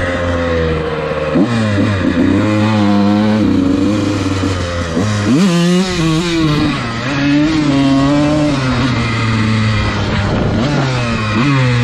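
Dirt bike engine running while being ridden, its revs rising and falling, with sudden jumps in engine speed three times.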